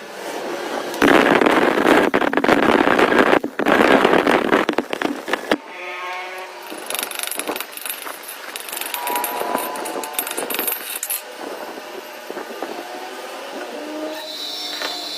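Metal gear being worked in a repair shop: a loud, harsh noise lasting about four seconds, then metallic ringing, clinking and scraping.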